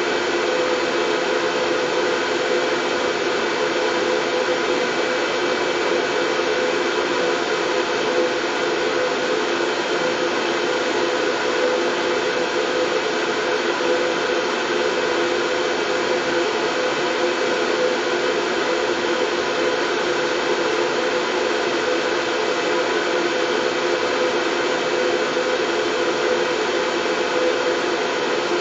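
Steady white noise for soothing a baby, even and unchanging throughout, with a faint steady hum strongest in the middle range.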